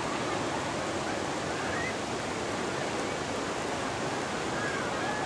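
Ocean surf: a steady, unbroken wash of breaking waves, with no single crash standing out.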